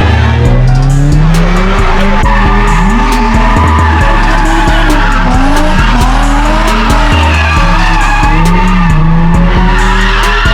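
A car engine revving up and down with tyres squealing, as in a burnout or drift, over a steady hip-hop beat.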